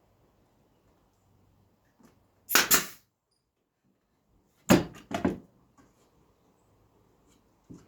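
Nail gun firing three times, about two seconds in and then a quick pair near the middle, each a sharp shot as nails are driven to tack down thin wood pieces.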